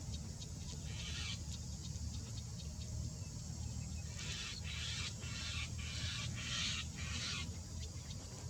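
Harsh, hissing bird calls: one short call about a second in, then a run of four or five between about four and seven seconds, over a steady low rumble.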